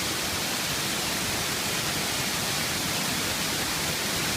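Waterfall pouring down, a steady rush of falling water.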